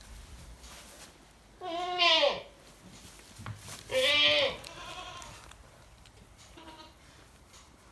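Goat bleating: two loud, wavering bleats about two seconds apart, each dropping in pitch at the end, with fainter bleats before and after.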